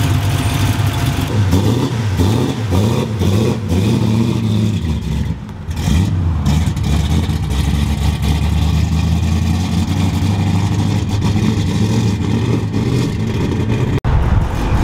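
Twin-turbo built two-valve V8 of a 2004 Mustang GT running, its revs rising and falling unevenly for the first few seconds. After a short dip about five seconds in, it holds a steadier drone as the car drives away.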